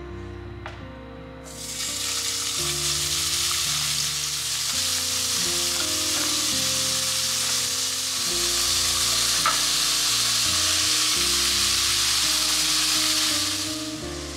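Thin-sliced pork frying in a nonstick pot, sizzling steadily from about a second and a half in. Slices of daikon radish go in partway through, and the sizzle grows louder; it dies away near the end.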